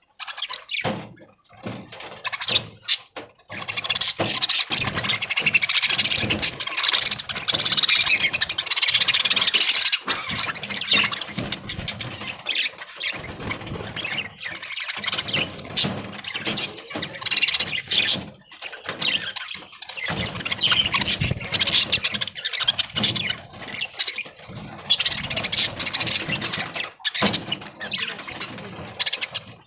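A flock of budgerigars chattering, many birds calling at once in a dense, continuous high-pitched jumble.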